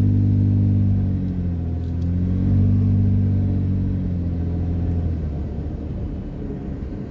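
Vehicle engine working under load as it drives through dune sand, heard from inside the cabin: the revs dip, climb again, then ease off near the end.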